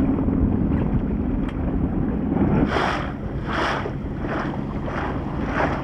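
A motorboat's engine runs steadily, with wind buffeting the microphone. From about halfway, water splashes against the hull five or six times, a little over one a second.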